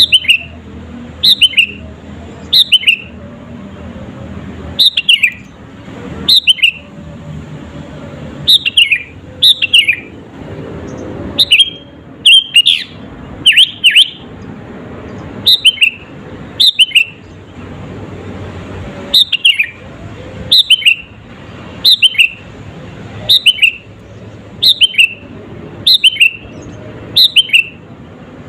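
Sooty-headed bulbul (kutilang) singing vigorously: short, loud phrases of one or two quick down-slurred whistles, repeated about every second or so, over a low steady background hum.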